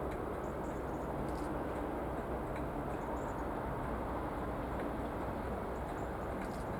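Steady low rumble of a large diesel engine running at an even pace, with a few faint clicks.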